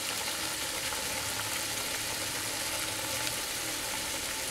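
Onion-tomato masala paste frying in oil in a kadai: a steady sizzle with faint scattered crackles.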